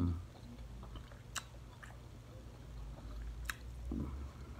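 A person chewing food with the mouth closed, soft and wet, with two sharp mouth clicks, one about a second in and another past three seconds, and a short low hum from the throat near the end.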